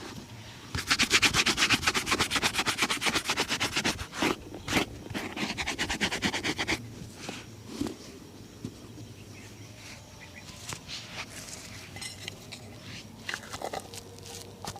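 Shoe being buffed during a shine, rapid even back-and-forth rubbing strokes. A second run of strokes follows, then only scattered light scrapes and taps.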